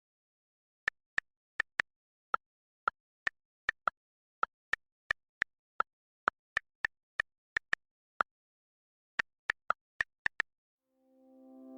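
A series of about two dozen short, sharp clicks at an irregular pace, like keystrokes, with dead silence between them. Music starts to swell in near the end.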